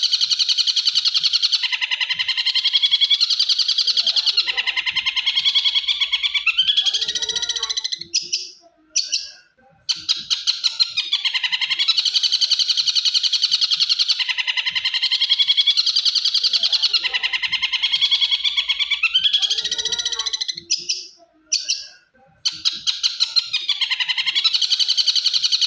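A birdsong master recording of canary and tengkek buto song: a long, very fast, continuous trilled song. It breaks off twice, about eight seconds in and again near the end, for a second or two each time, then starts again.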